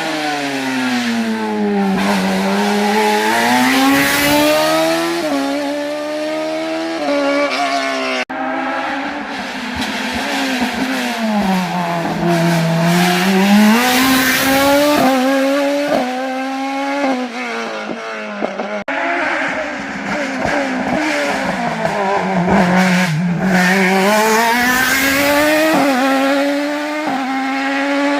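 Slalom race car engine revving hard, its note dropping as it brakes and then climbing in steps through the gears as it accelerates out of the chicanes. This happens three times, the sound breaking off abruptly twice between passes.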